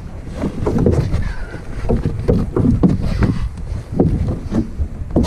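Low rumbling microphone noise with frequent irregular knocks, the sound of wind buffeting and handling on a handheld camera microphone.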